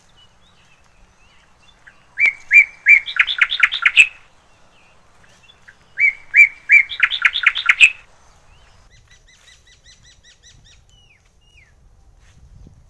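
A bird singing loudly twice, each phrase about two seconds long: a few separate notes followed by a quick run of notes. A fainter rapid series of bird notes follows.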